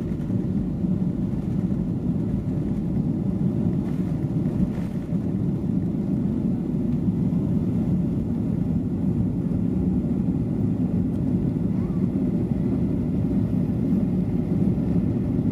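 Steady low rumble of a Boeing 737-800's CFM56-7B engines and airflow, heard from inside the passenger cabin during take-off and climb.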